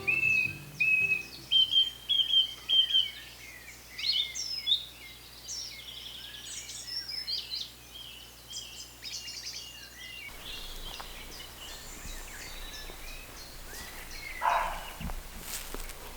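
Woodland birdsong from several birds: a phrase of repeated clear whistled notes at first, then a busy mix of chirps and trills. After about ten seconds it thins out, with a short burst of noise near the end.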